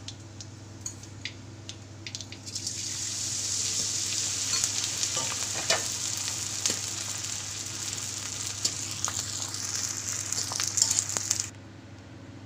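Pieces of gond (edible gum) sizzling and crackling as they fry and puff up in hot ghee in a metal kadhai. After a few faint clicks the sizzle starts about two and a half seconds in, runs steadily, and cuts off suddenly near the end.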